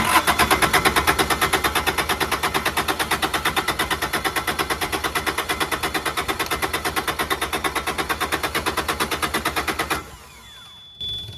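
Kubota D722 three-cylinder diesel being cranked over by its starter without firing, a fast, even rhythm of compression strokes, while air is bled from the injection pump and the loosened injector lines. The cranking stops about ten seconds in, with a short burst near the end.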